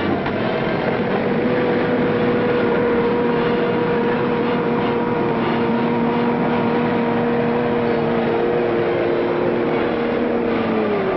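A train running, its steady rumble joined by one long held tone that slides down in pitch near the end.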